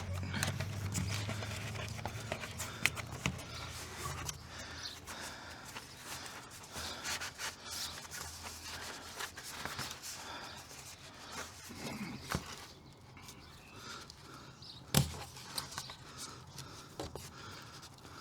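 Sheet insulation being handled, rubbed and pressed into place by hand, an irregular rubbing and scraping with scattered light knocks, and one sharper knock about fifteen seconds in.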